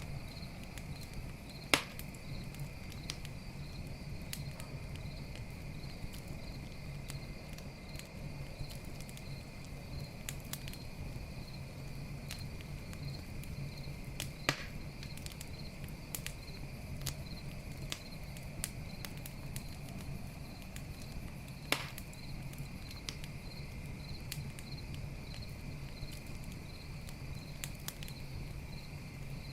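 Campfire crackling with scattered small snaps and a few louder single pops of burning wood, over the steady chirping of crickets.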